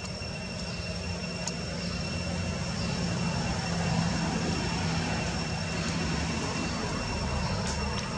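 A distant engine drone that swells about halfway through and then eases off, like a vehicle or aircraft passing, over steady thin high whines.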